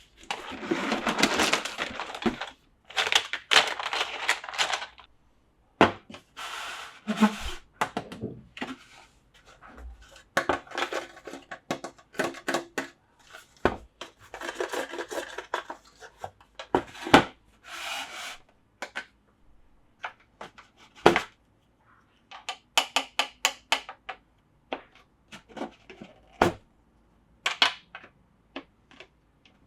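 Hard plastic toy train set pieces being handled: bouts of rubbing and clattering a few seconds long, with sharp clicks and knocks between them.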